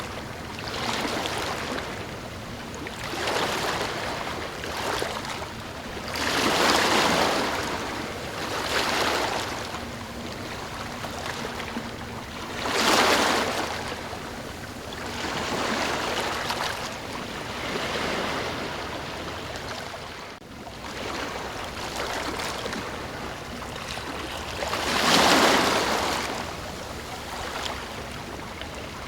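Ocean waves breaking and washing up one after another. Each wave is a rush of surf that swells and fades over a couple of seconds, and three larger breakers stand out.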